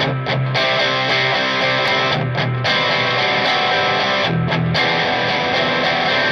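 Electric guitar strumming chords through the amps with some distortion, the sound broken by short muted stops about every two seconds.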